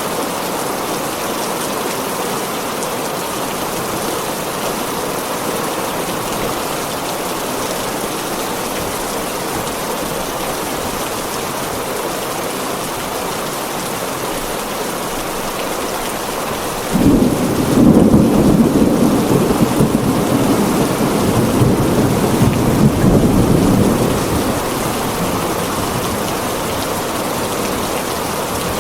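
Heavy rain falling steadily on a tin roof. About seventeen seconds in, a sudden clap of thunder breaks in and rumbles for some seven seconds before fading back under the rain.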